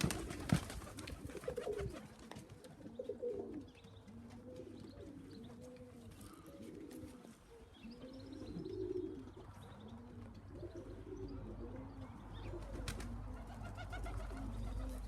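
Domestic pigeons cooing over and over, a string of short rising-and-falling coos, with a few sharp clicks in the first couple of seconds.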